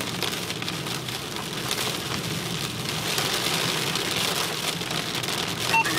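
Heavy rain pelting the roof and windshield of a moving car, heard from inside the cabin as a dense patter of fine ticks over the car's low steady hum.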